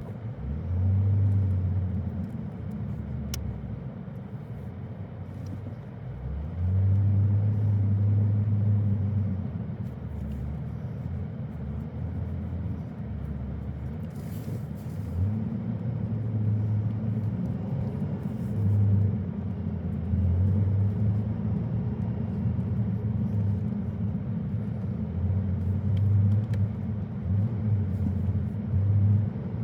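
Car driving, a steady low engine and road rumble with stretches where the engine hum swells louder and then drops back.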